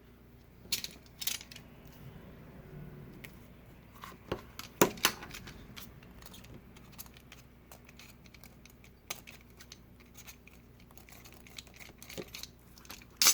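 Double-sided adhesive tape being handled and cut into strips: crinkling of the tape and its backing film, with scattered sharp clicks and taps, the loudest about five seconds in and again at the very end.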